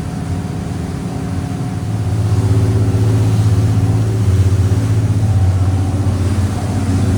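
Twin Cummins 8.3 diesel engines of a 44-foot Sea Ray Sundancer cruising underway, a steady deep drone that grows louder about two seconds in.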